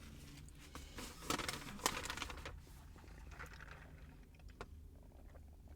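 Close-up eating sounds: chewing crispy fast food, a scatter of small crunches and clicks that are busiest in the first half and thin out later.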